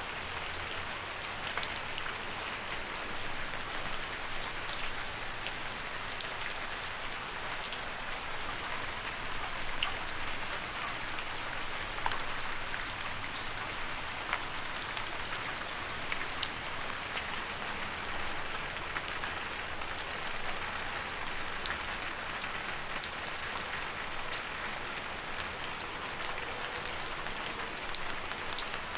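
Steady rain falling, an even hiss with many small scattered drop ticks on a surface throughout.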